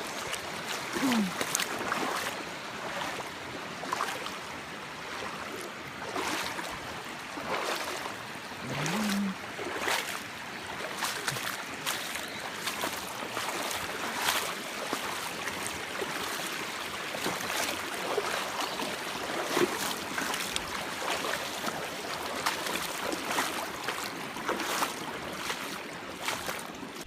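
Rushing creek water at a waterfall, a steady wash with irregular splashes and sloshes on top.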